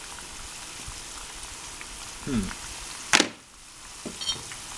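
Tofu cubes deep-frying in hot oil at about 150 °C, a steady sizzle. A single sharp click sounds about three seconds in, and the sizzle dips briefly after it.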